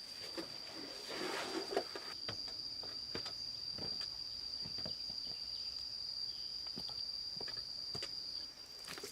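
Insect trilling on one high, steady note that cuts off near the end, over scattered light clicks and knocks and a brief rustle about a second in.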